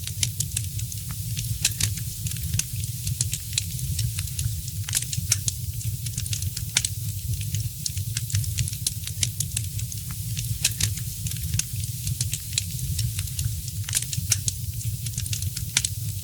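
Wood fire crackling, with many small irregular pops and snaps and a few louder ones, over a steady low rumble.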